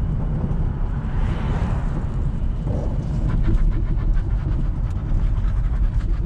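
Nissan S14 on the move, heard from inside: a steady low rumble of road and running noise, with scattered light clicks and rattles in the second half.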